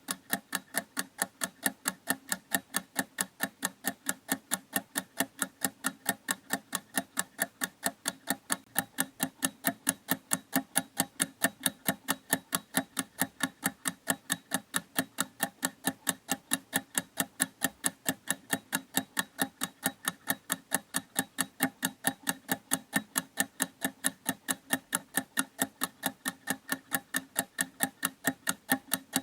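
Clock ticking steadily in an even rhythm, about three ticks a second.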